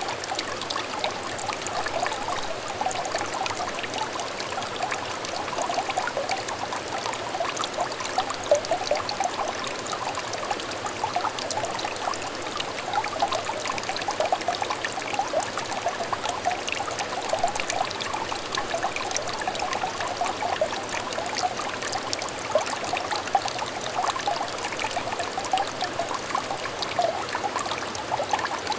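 A small shallow stream trickling and babbling over stones, a steady, even run of small splashes and gurgles with no change.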